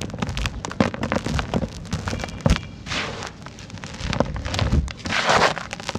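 Dry, dusty sand-cement chunks crumbling: a dense run of irregular crackles and crunches, with a longer crumbling rush about five seconds in.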